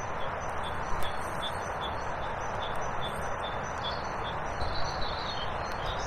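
Small birds chirping, with a short warbling call about four to five seconds in, over a steady rushing background noise.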